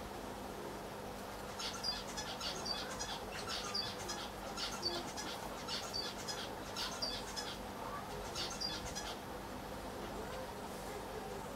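A small bird chirping in quick clusters of short, high calls for about seven seconds, over a steady hum.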